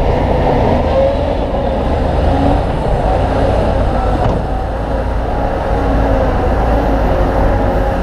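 Heavy diesel earthmoving machinery running steadily: a deep engine rumble with a faint wavering squeal over it.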